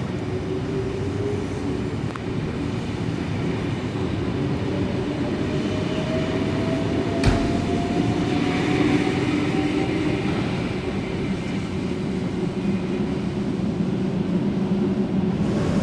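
S-set electric suburban train pulling away from the platform, its traction motor whine slowly rising in pitch over steady running noise. A single sharp click comes about seven seconds in.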